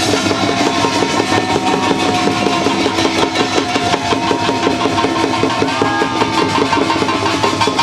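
Korean traditional folk music ensemble playing: percussion beating a fast, even rhythm, with a long held melody line over it.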